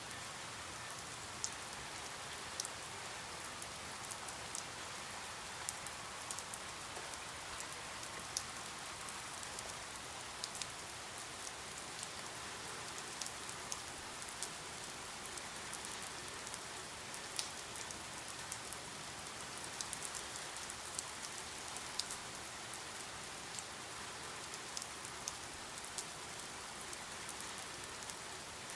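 Steady rain falling on a surface, a constant hiss with frequent scattered, irregular drop ticks standing out from it.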